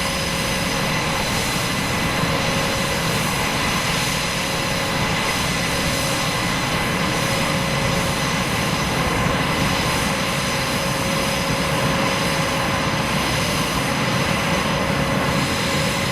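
Aircraft engine noise: a steady drone with faint steady whining tones over it.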